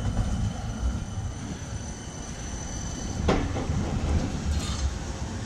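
Tram running on street track with a steady low rumble, and one sharp clack of wheels over a rail joint about three seconds in.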